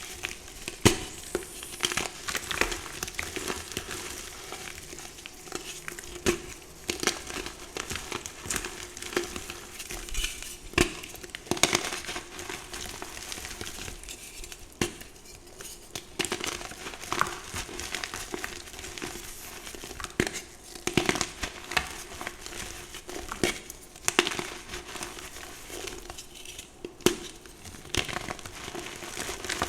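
Pink and purple reformed gym chalk being crushed, crunching and crumbling in irregular crackles, over a faint steady hum.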